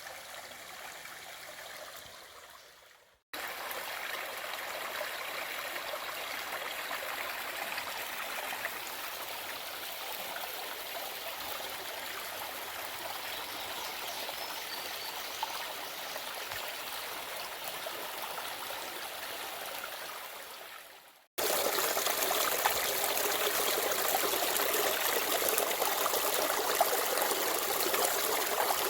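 Creek water running over rocks: a steady trickling rush. It comes in three stretches, each cut off by a brief drop to silence, and the last stretch is louder.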